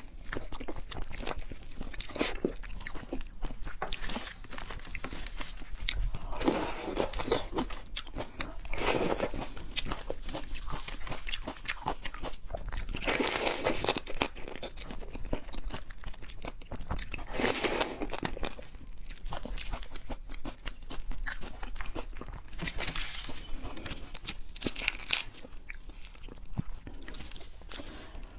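Close-miked eating of seafood: continuous chewing and crunching with many sharp clicks, and a louder wetter bite or crunch every few seconds.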